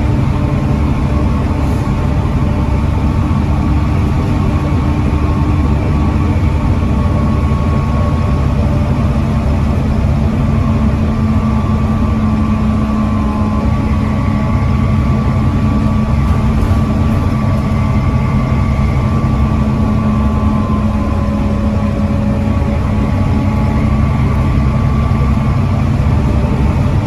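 Volvo D7C 7.3-litre six-cylinder diesel engine of a Volvo B7TL double-decker bus running steadily, its pitch shifting only slightly.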